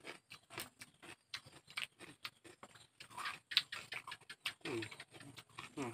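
Person chewing and smacking while eating fish with raw vegetables: a quick, irregular run of wet mouth clicks, with a couple of short falling hums near the end.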